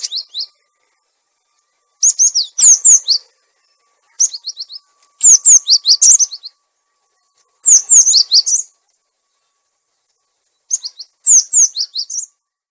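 Gelatik batu (cinereous tit) song played as a lure call: phrases of quick, high, falling whistled notes, repeated about every two to three seconds with short gaps between.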